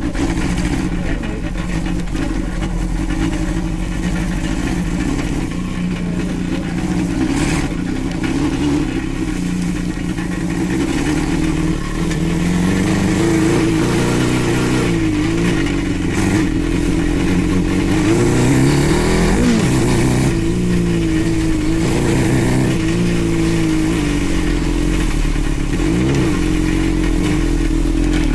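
A go-kart's 600cc motorcycle engine running under way, its revs rising and falling as it is driven. The revs swing up and down more from about halfway through.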